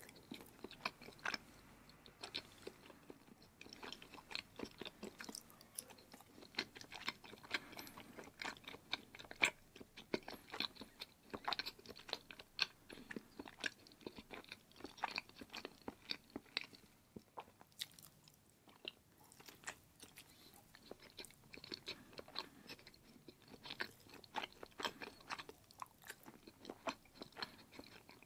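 A person chewing a mouthful of cheese: a steady run of small mouth clicks and smacks, easing off briefly past the middle before picking up again.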